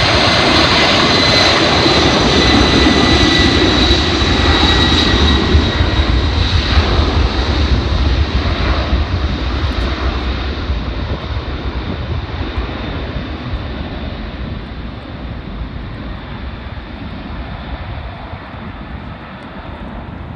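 Airliner's jet engines running past and moving away: a loud rushing noise with a high whine that sinks slightly in pitch, fading gradually over the second half.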